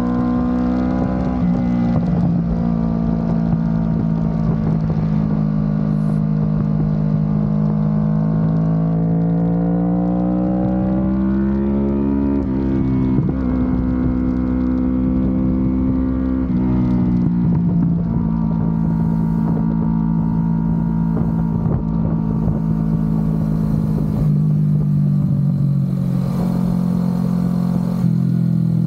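Kawasaki Ninja 650 parallel-twin engine through an Akrapovic exhaust while riding. The note climbs steadily for about ten seconds, falls sharply about twelve seconds in, then holds a lower, steadier pitch that steps down again near the end, with a low wind rumble underneath.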